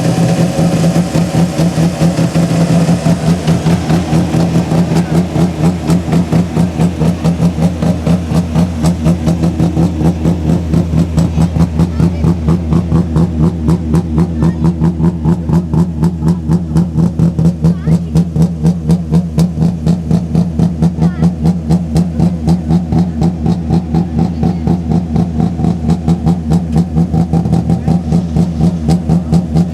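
Rally car engine idling steadily at a constant pitch, with a regular pulsing beat of several throbs a second.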